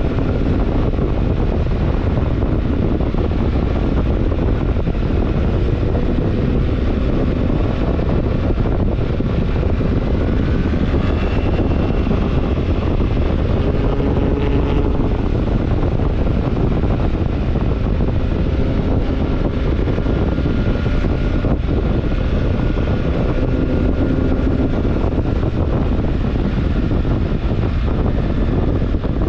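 BMW R1300GS Adventure's boxer-twin engine running while the motorcycle is ridden, heavily mixed with wind rush over the microphone; the engine note shifts a few times.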